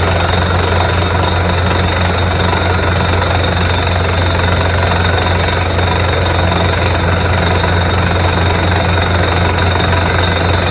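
Borewell drilling rig running at work: a loud, steady, unbroken machine noise with a strong low hum and a rattling hiss over it.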